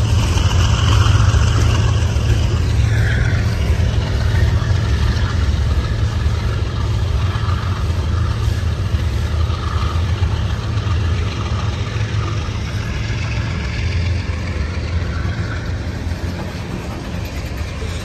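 Freight train's covered hoppers and tank cars rolling past close by: a steady rumble of steel wheels on the rails, easing slightly toward the end.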